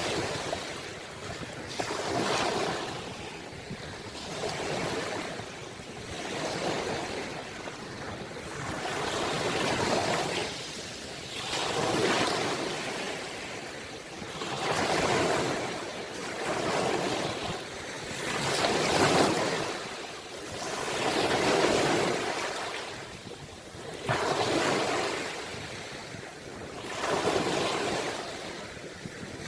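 Ocean waves washing ashore, a rush of surf that swells and falls back about every two to three seconds, a dozen times over.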